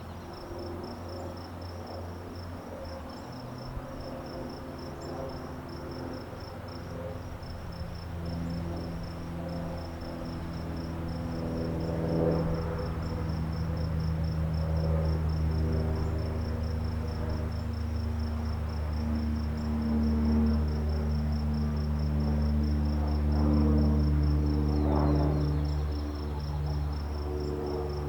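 A cricket chirping in a fast, even, high-pitched pulse throughout. Under it runs a louder low hum of several steady tones that shift in pitch now and then and grow louder through the second half.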